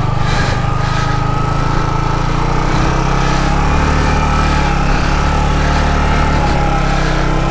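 Yamaha MT-15's single-cylinder engine running hard at steady high revs, under load on a steep off-road hill climb.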